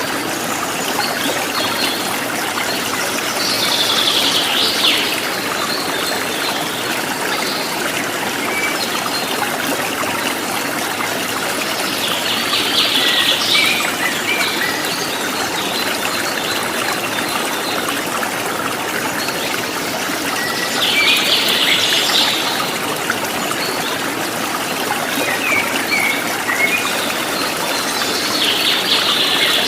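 Water trickling and running steadily, with a bird singing short bursts of song four times, roughly every eight seconds.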